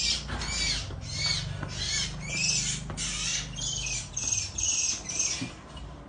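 A small bird caught by a cat, giving repeated shrill distress squawks, about two a second, which stop shortly before the end.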